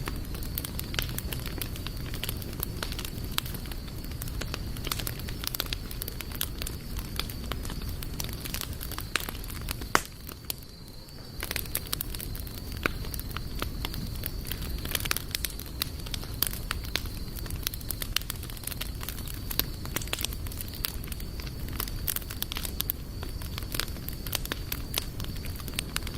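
Wood campfire burning, crackling and popping continuously over a low rumble of flame. There is one louder pop about ten seconds in, followed by a brief lull in the crackling.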